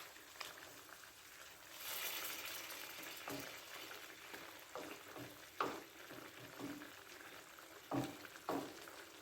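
Stir-fry of chicken and vegetables sizzling and bubbling faintly in a pan with a little added water, the hiss swelling about two seconds in, with a few light knocks scattered through.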